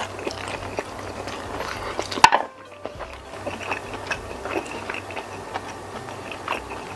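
Close-miked eating of a jumbo squid in spicy sambal by hand: chewing, lip smacks and wet, sticky sounds of fingers and food, with many small clicks. One sharp click stands out about two seconds in.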